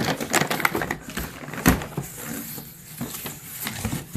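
Rustling and sharp knocks of boxed fireworks being handled, with a dense run of crackly clicks in the first two seconds, one louder knock near the middle, and a few more clicks near the end.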